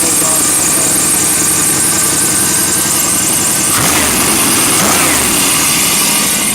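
1991 Chevy Blazer's 350 TBI V8 running shortly after a cold start, with the engine revved up briefly twice about four to five seconds in. A little alternator belt squeal runs along with it.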